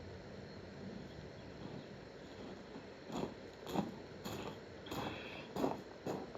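A faint steady hiss, then from about halfway a run of short, sharp knocks or clanks, roughly two a second.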